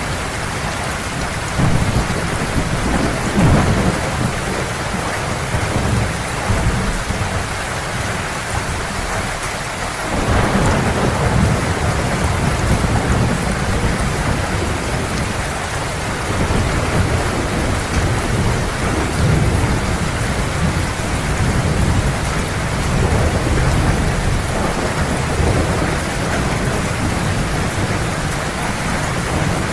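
Heavy rain falling steadily in a thunderstorm, with deep rolls of thunder rumbling in about two seconds in and again about ten seconds in, each lasting several seconds.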